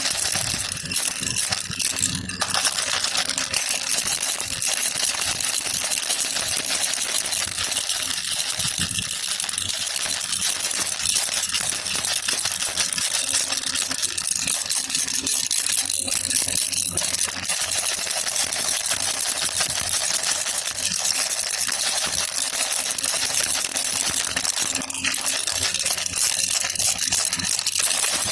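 Baby rattle (jhunjhuna) shaken steadily: a dense, unbroken clatter of small rattling clicks, bright and high-pitched.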